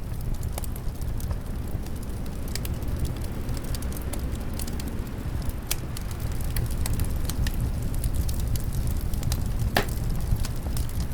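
Wood fire crackling in a fireplace, with scattered small pops and one louder pop near the end, over a steady low rush of winter wind.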